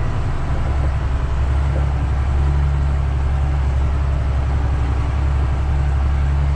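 Truck engine pulling steadily under load up a steep, muddy grade: a low, even drone.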